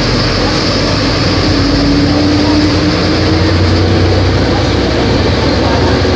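Volvo B270F bus's diesel engine running steadily, with a droning hum and a tone that rises slightly about two seconds in.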